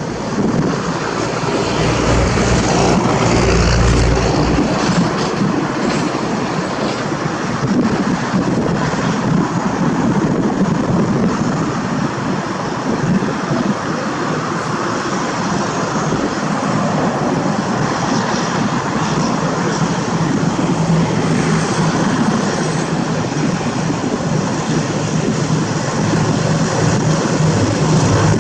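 A train running by: a steady, loud rumble of wheels on the track and engine drone, with the low engine hum growing stronger near the end.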